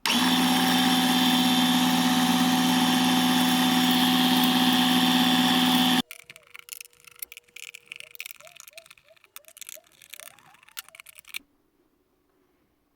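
Air compressor running loudly and steadily, then cut off suddenly about six seconds in. Afterwards a few seconds of light clicks and handling knocks, then near silence.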